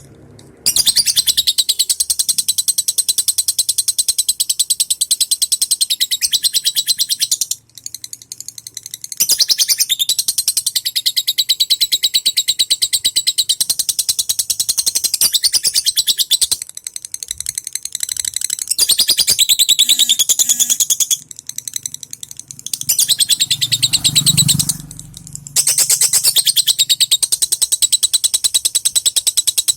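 Lovebird singing in long bouts of very fast, high-pitched chattering (ngekek), each lasting several seconds with short breaks between them.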